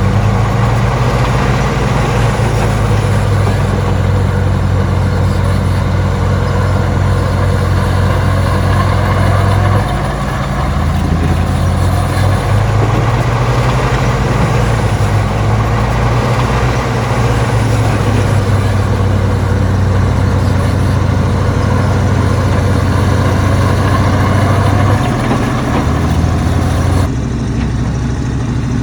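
Heavy construction machine's diesel engine running steadily, its low note shifting a little about ten seconds in and again near the end.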